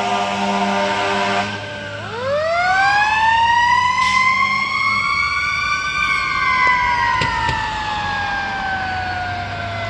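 Fire truck siren: a steady horn-like tone at first, then about two seconds in the siren winds up quickly in pitch and slowly falls away.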